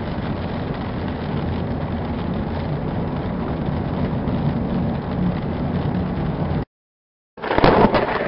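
Steady engine and road noise heard from inside a moving car. It cuts off abruptly about six and a half seconds in, and after a moment of silence a louder, different recording starts.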